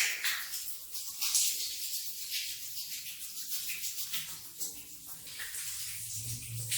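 Hissing, swishing sounds of a wet rug being cleaned, swelling and fading every second or so.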